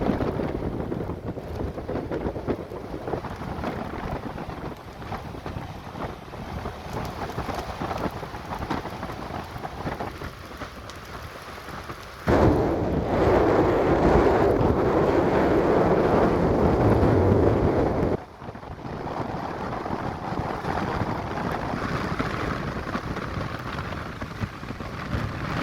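Stormy Atlantic sea: surf and wind in a continuous rushing noise, with gusts buffeting the microphone. Just past the middle a louder, denser stretch starts abruptly and cuts off just as suddenly about six seconds later.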